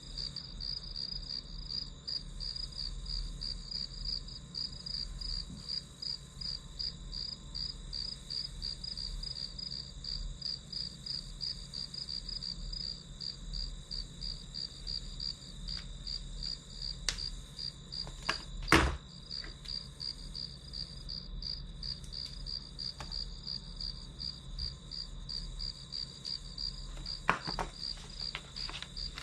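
Crickets chirping in a steady, fast, even pulse, about four chirps a second. A few sharp knocks cut in, the loudest about two-thirds of the way through and two more near the end.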